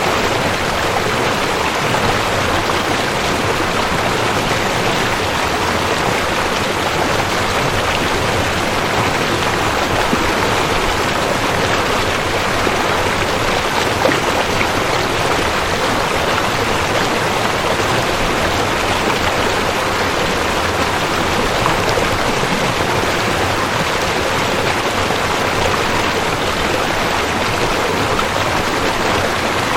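Waterfall: falling water rushing in a steady, even hiss with no breaks.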